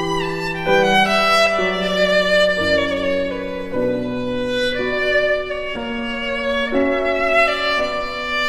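Background music: a slow violin melody over a sustained accompaniment, moving note by note about once a second.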